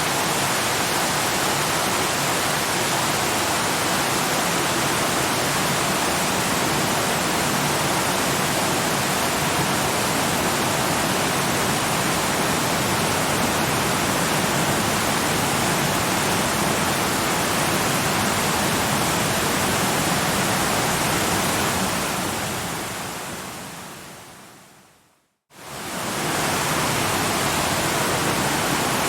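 Waterfall rushing, a steady even hiss of falling water; about three-quarters of the way through it fades to a moment of silence and quickly fades back in.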